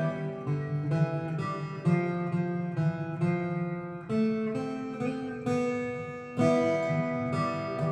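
Solo acoustic guitar playing a slow melody over plucked chords, each note starting sharply and ringing out before the next.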